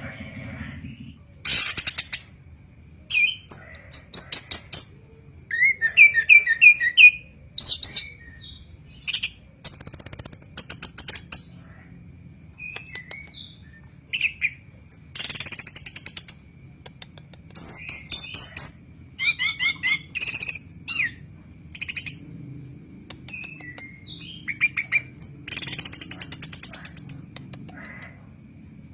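Chestnut-capped thrush (anis kembang) singing a varied song of loud, short phrases with brief pauses between them. The phrases mix very high rasping bursts, fast trills and short whistled notes, and the longest bursts last about a second and a half.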